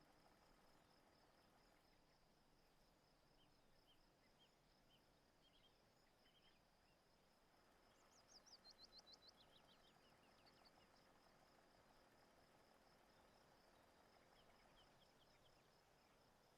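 Faint countryside ambience: a steady, pulsing insect trill with scattered bird chirps, and a quick falling run of bird notes about eight seconds in.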